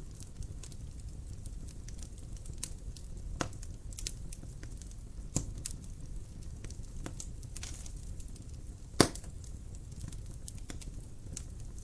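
Fire crackling in a fireplace: a steady low rumble with scattered sharp crackles and pops. The loudest pop comes about nine seconds in.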